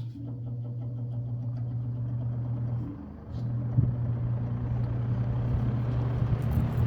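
Vintage box fan's electric motor running with a steady hum, its front bushing bearing freshly oiled. The hum dips briefly about three seconds in, then comes back.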